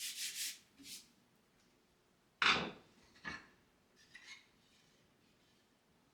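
Household handling sounds: a few short scrapes or rubs, then a solid knock about two and a half seconds in and a lighter knock just under a second later.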